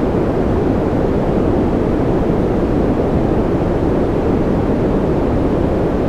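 Continuous white-noise ambience track: a loud, unchanging rushing hiss weighted toward the deep end, with no separate drops or events.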